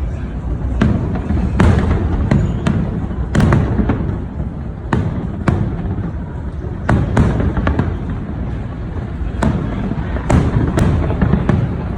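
A fireworks display: aerial shells bursting one after another at irregular intervals, often several a second, each a sharp bang over a continuous low rumble of booms.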